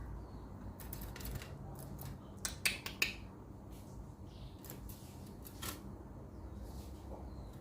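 A long-tailed shrike gives a few short, sharp clicking notes at irregular intervals, over a faint steady low hum.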